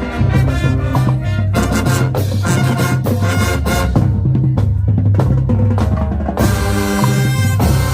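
High school marching band playing, drumline to the fore: snare and bass drums beating under brass. About six and a half seconds in, cymbals wash in and the brass holds longer notes.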